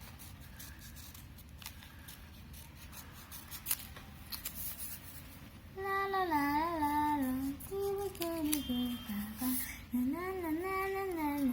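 Faint snips of scissors cutting paper, then from about halfway a young girl humming a sing-song tune in short phrases.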